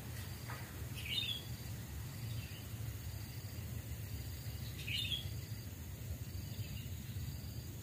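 Sooty-headed bulbul (kutilang) giving short chirping calls, two clearer phrases about a second in and about five seconds in, with fainter notes between them, over a steady low background hum.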